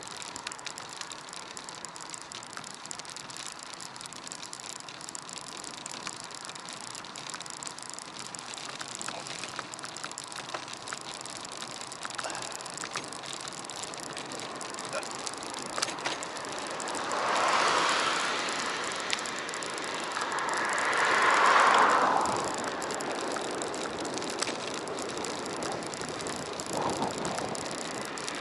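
Riding noise of a bicycle on a road: steady tyre and wind noise with small rattles and clicks. About two-thirds of the way in, two whooshes swell and fade a few seconds apart, the second louder.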